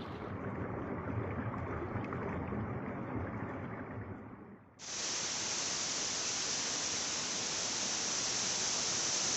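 Steady rushing of a monsoon waterfall and its stream, an even hiss with no pitch. About five seconds in it changes suddenly to a brighter, slightly louder rush.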